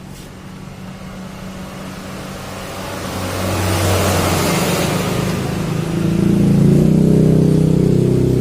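Bored-out 130 cc Yamaha Mio scooter engine running through its stock factory exhaust, with engine speed and loudness climbing about three seconds in. It rises again to its loudest from about six seconds.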